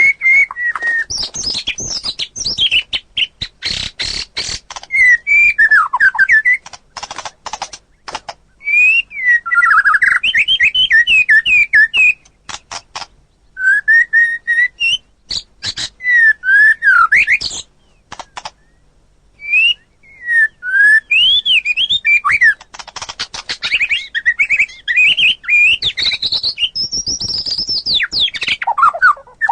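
White-rumped shama singing in full song: fast runs of varied whistles and sliding notes, broken up by harsh clicking rattles, with a few short pauses between phrases.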